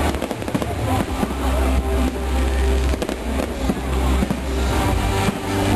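A fireworks display: bangs and crackles going off in quick succession over a steady low rumble.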